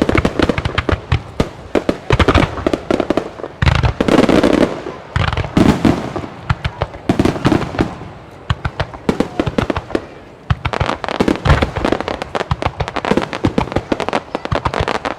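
An extra-large starmine fireworks barrage by Ikebun: rapid volleys of shell bursts with crackling between them. Heavier, deeper booms come about four, six, seven and eleven and a half seconds in.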